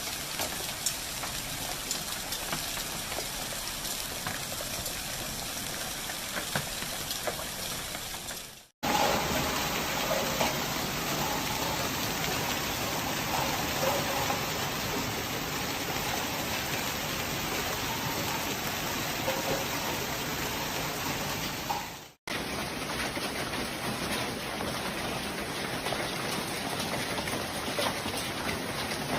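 Hail and heavy rain pelting down in a storm: a dense, steady hiss with scattered sharp hits. The sound breaks off abruptly twice, about nine and twenty-two seconds in, and starts again each time.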